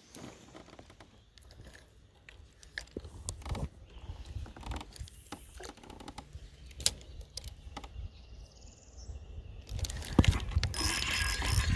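Scattered light clicks and taps of fishing tackle being handled, over a low rumble, turning into a louder, steady rustling noise about ten seconds in.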